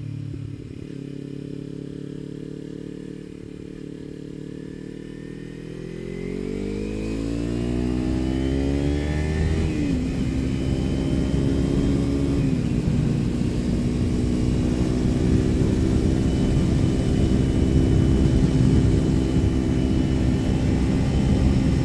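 Kawasaki Ninja 300's parallel-twin engine through an Akrapovič slip-on exhaust, running steadily and then accelerating from about six seconds in. Its pitch climbs, drops briefly twice at upshifts about ten and twelve and a half seconds in, then holds steady at a cruise.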